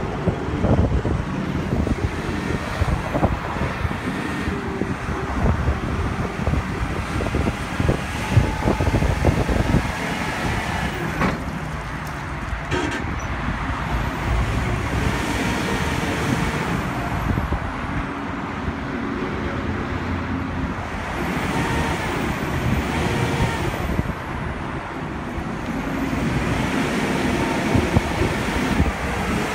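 Caterpillar TL1255C telehandler's diesel engine running, its pitch rising and falling several times, with clanks and knocks in the first ten seconds or so.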